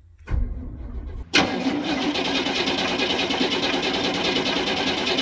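Chevrolet 454 big-block V8 of a 1982 Kings Highway motorhome being started cold. A short low rumble comes first, then about a second and a half in a sudden loud burst as the engine turns over and starts. It carries on steadily for about four seconds.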